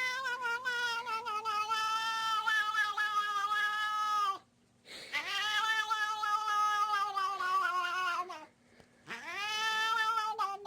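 A cat yowling in three long, drawn-out calls, each a few seconds long and slowly falling in pitch, with short breaks between them.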